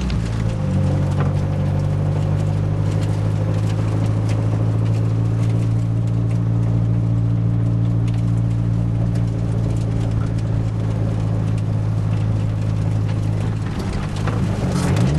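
Nissan 240SX engine running steadily under way, with a light rhythmic knocking that was later traced to a loose flywheel. Near the end the engine pitch rises and falls as it is revved.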